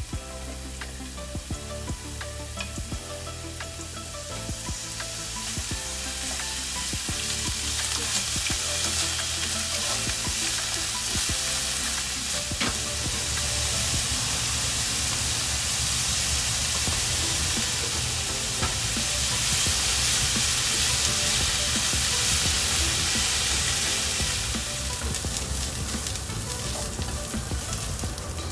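Burdock root and carrot strips stir-frying in sesame oil in a frying pan: a steady sizzle that grows louder a few seconds in and eases a little near the end.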